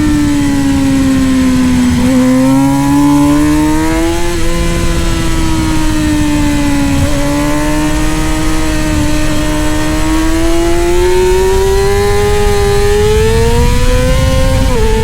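Middleweight superbike engine running at high revs under race load. Its pitch dips and rises a few times in the first half, climbs steadily through the second half, then drops sharply near the end.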